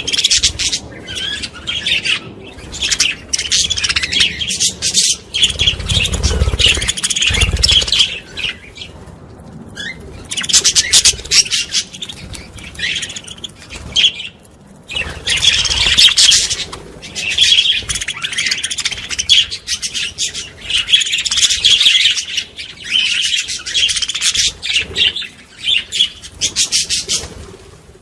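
Small birds chirping rapidly and continuously in bouts with brief pauses, with a few low thuds or wing flutters about six to eight seconds in.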